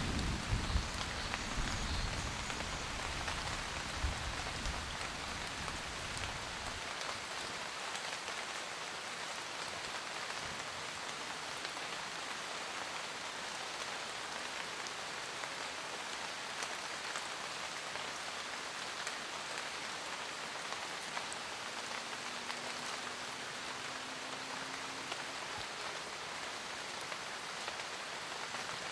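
Steady rain pattering on a roof, with scattered sharper drops. A low thunder rumble dies away over the first six seconds or so.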